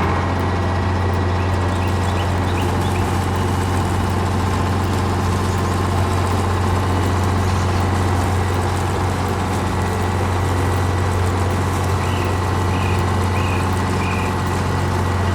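Vehicle engine running steadily at constant speed as a low, even drone, with a few short high chirps near the end.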